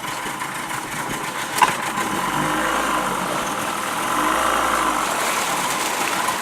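Tour boat's outboard motor running at low speed while the boat is manoeuvred back, its hum swelling a little midway. A single sharp knock about one and a half seconds in.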